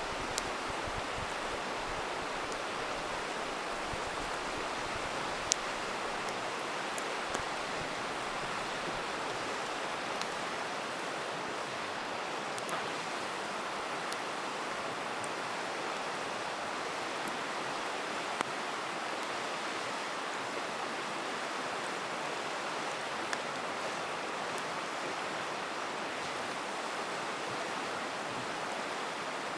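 A river rushing steadily, with scattered sharp pops and crackles from a campfire every few seconds.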